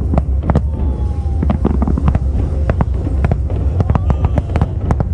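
A fireworks display: rapid, irregular sharp bangs and crackles from shells bursting, several a second, over a continuous low rumble.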